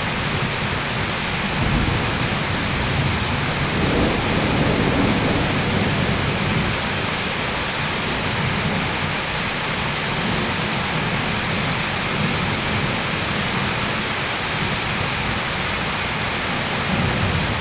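Heavy rain pouring steadily, with a rumble of thunder rising and fading about four seconds in, and another beginning near the end.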